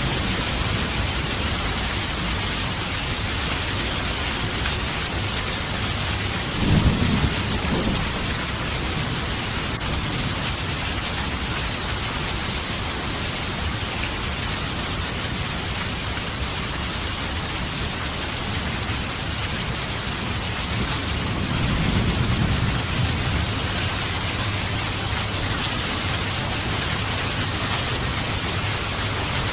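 Steady heavy rain falling, with two rolls of thunder: a sharper crack-and-rumble about a quarter of the way in and a longer, softer rumble about three quarters of the way through.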